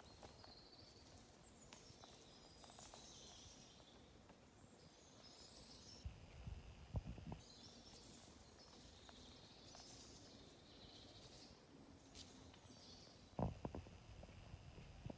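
Faint birdsong: short phrases of high chirping notes coming back every few seconds, over a quiet background with a few soft low thumps.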